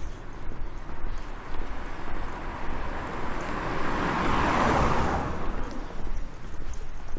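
A car passing by: tyre and engine noise swells to a peak about four seconds in, then fades away. Footsteps and wind rumble on the microphone run underneath.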